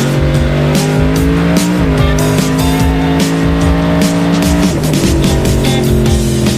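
Drag racing vehicle doing a burnout: engine held at steady revs with loud tyre squeal, the pitch dropping a step twice, over background music with a steady beat.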